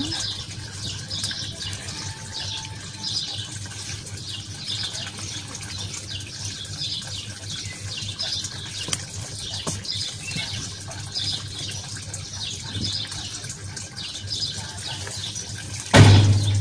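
Small birds chirping in the background, short high chirps a few each second, with a sudden loud burst of noise near the end.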